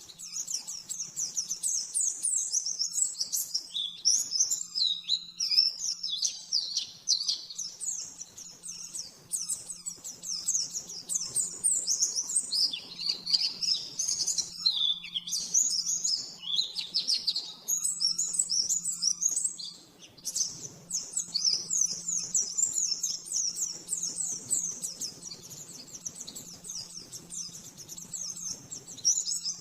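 White-eye (pleci) singing a fast, continuous run of high chirping twitters, with a short break about twenty seconds in. A faint steady low hum runs underneath.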